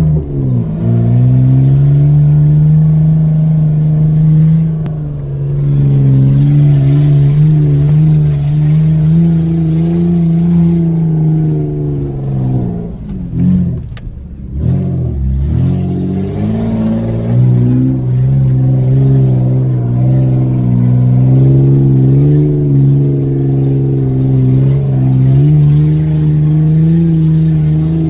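Car engine heard from inside the cabin, pulling steadily at moderate revs on a rough off-road track. About halfway through, the revs drop and pick up again a few times before running steadily again.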